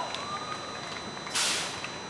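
A short, sharp hiss of escaping air about a second and a half in, over steady background noise with a faint gliding tone near the start.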